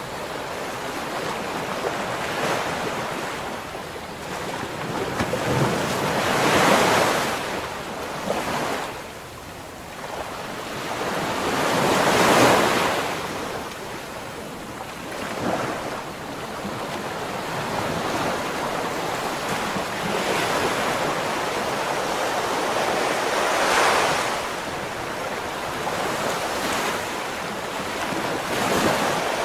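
Ocean waves breaking and washing on the shore, swelling louder about every five to twelve seconds, with wind buffeting the microphone.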